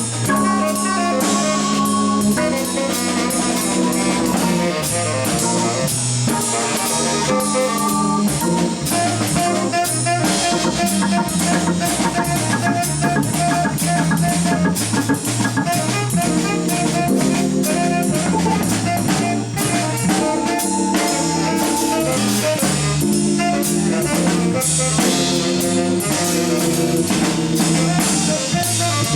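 Live jazz from a trio of tenor saxophone, organ and drum kit, the drums keeping up a busy pattern of cymbal and drum strokes under sustained melodic lines.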